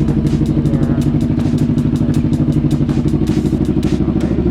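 Kawasaki Vulcan S 650's parallel-twin engine idling through its aftermarket Dan Motto exhaust with a steady, even pulse, warming up just after being started.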